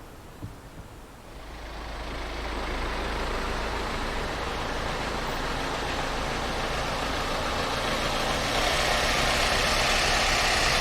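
A train's rumble coming in about a second in and growing steadily louder, a steady noisy running sound with a low hum, as the train draws near.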